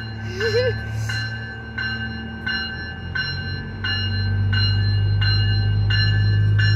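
Departing commuter train: a bell rings steadily, about three strokes every two seconds, over the low rumble of the train's diesel engines, which grows louder about four seconds in as it pulls away.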